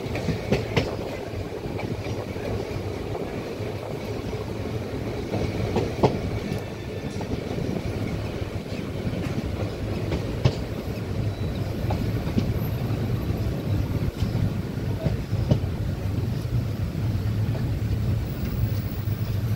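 Passenger train running along the track, heard from inside the carriage: a steady rumble of wheels on rail with a few sharp knocks now and then.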